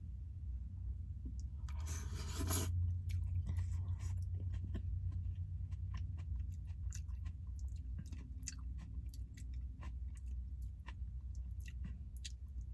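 Person eating hot ramen noodles: chewing, with many small clicks of the spoon and fork and a brief breathy burst about two seconds in, over a steady low hum.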